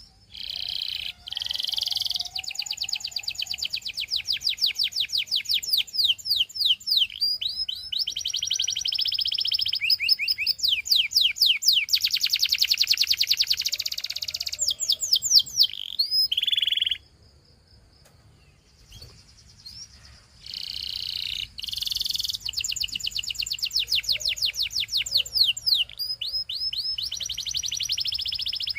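Domestic canary singing long phrases of fast repeated trills and rolls, with a pause of a few seconds just past the middle before the song starts again.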